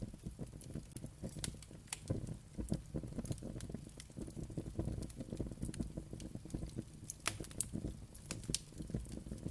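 Wood fire burning with a steady low rumble and irregular sharp crackles and pops, a few louder pops late on.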